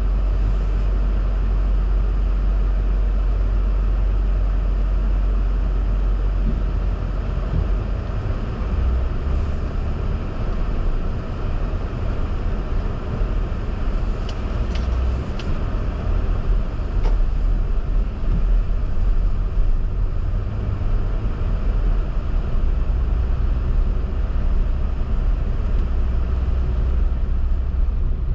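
A car driving on snowy city streets: a steady low rumble of engine and road noise that swells and eases a little, with a few faint short ticks around the middle.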